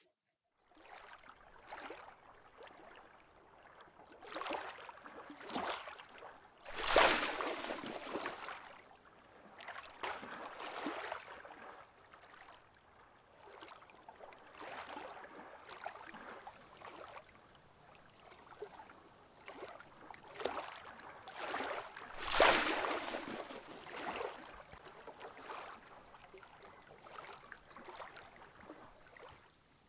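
Water washing in repeated swells that rise and fade, the strongest about seven and twenty-two seconds in.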